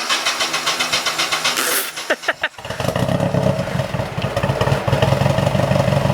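Nissan 240SX (S13) cranked over by its starter with a rapid rhythmic whir, catching after about two and a half seconds and settling into a steady idle. The idle comes through a freshly fitted 3-inch Spec D catback exhaust with a deep tone.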